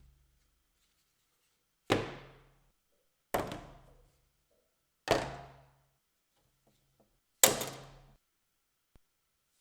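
Four separate sharp knocks of a hammer striking wood, a second or two apart, each ringing out briefly.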